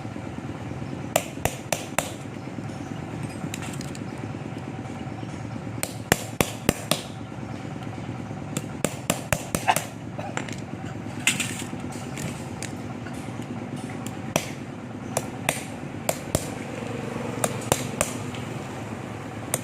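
Irregular sharp metal knocks and taps from tools working on the pump's parts during the repair. They come singly and in quick clusters of two to five, over a steady low background noise.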